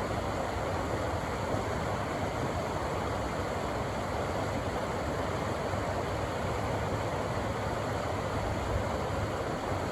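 Rushing river water, a steady, unbroken noise of fast-flowing water over rocks.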